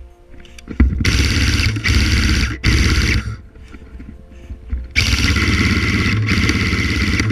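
Airsoft electric gun firing long full-automatic bursts: two bursts back to back starting about a second in, a pause of under two seconds, then two more. Each burst starts and stops abruptly, with a fast, even rattle.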